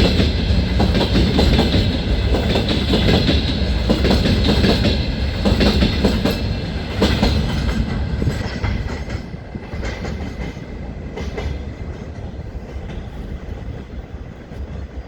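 Freight train wagons rolling past at speed, their wheels clattering over rail joints, the sound fading away over the last several seconds as the train moves off.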